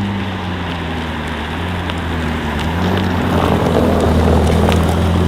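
Ferrari SF90 Stradale's twin-turbocharged V8 running at low, steady revs, a deep even engine note that grows slightly louder about three to four seconds in.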